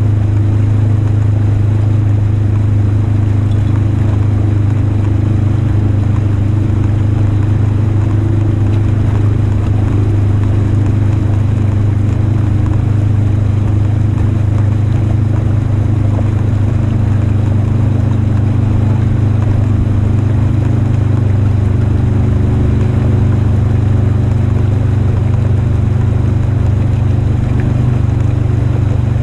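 Polaris RZR 1000 High Lifter side-by-side's twin-cylinder engine running at a steady, even drone while driving, with no revving or change in pace.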